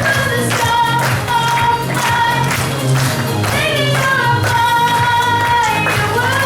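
A young female singer holding long sung notes over a pop backing track with a steady beat.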